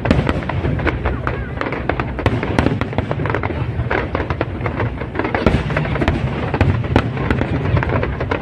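Aerial fireworks display: a dense barrage of bangs and crackling bursts in rapid succession, many each second.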